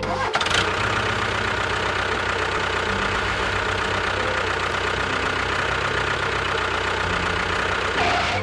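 An engine running steadily, starting abruptly and with its upper hiss dropping away a few tenths of a second before the end.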